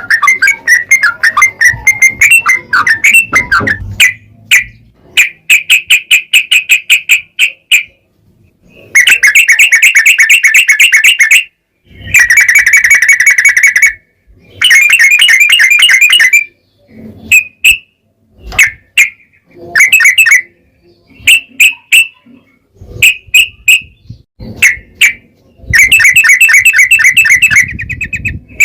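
Yellow-vented bulbul (trucukan) singing loudly in long, rapid chattering trills. Bouts of a few seconds alternate with shorter phrases and brief pauses.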